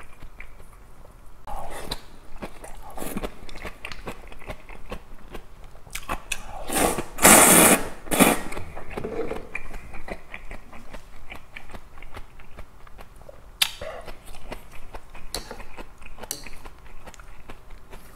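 Close-miked chewing of spicy fresh napa-cabbage kimchi and soybean noodles, with many small wet mouth clicks. There is one loud burst lasting about a second around seven seconds in.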